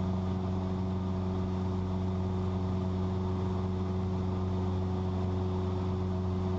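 Cessna 172's piston engine and propeller droning steadily at cruise power, heard inside the cabin.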